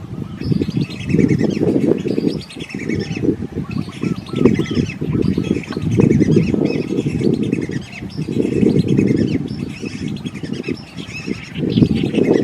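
Wetland birds calling: repeated high, falling notes again and again. Underneath is a loud, low, rough chattering layer that rises and falls every second or two.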